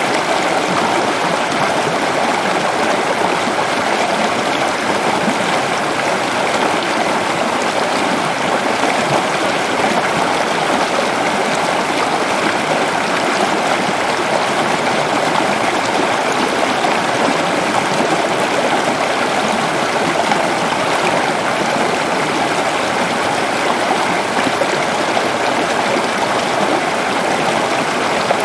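Waterfall rushing steadily, an even, loud wash of falling water with no change.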